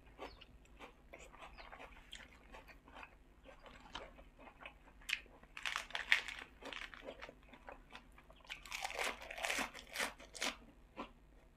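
Mouth chewing and biting spicy pork salad with fresh lettuce, with many short wet clicks. There are louder crisp crunching stretches around six seconds and again from about nine to ten and a half seconds.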